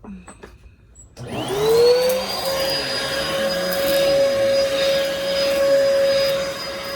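Bissell Helix vacuum cleaner switched on about a second in, its motor spinning up in a rising whine and then running steadily with a high whine and rushing air. A few light clicks come before it starts.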